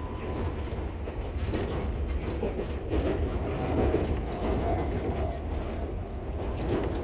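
Enoden electric train running, heard from inside the carriage: a steady low rumble of wheels on track and motors, swelling a little in the middle.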